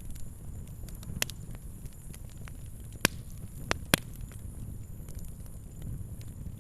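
Fire crackling: scattered sharp pops and snaps, the loudest a little after three seconds in and twice more just before four seconds, over a low steady rumble.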